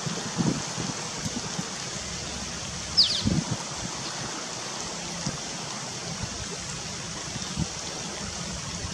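Stream water running steadily. About three seconds in there is one short, high chirp falling in pitch, from a bird.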